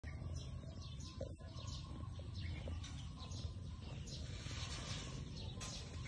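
Several small birds chirping and twittering together, many short, quick, downward-sweeping high chirps overlapping, over a steady low background rumble.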